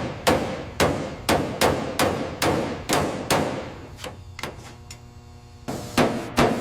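Hammer blows on metal, about two a second, each ringing briefly; the blows pause for about a second near the end, then resume.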